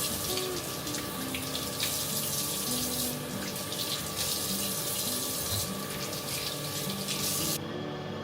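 Water running from a tap into a sink in a steady gush with small surges, shut off sharply near the end.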